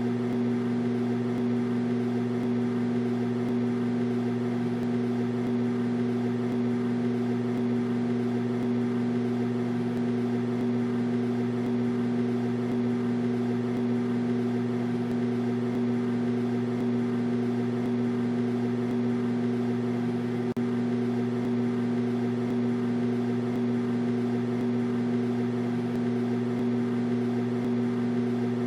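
Microwave oven running: a steady, unchanging hum with a buzzy edge.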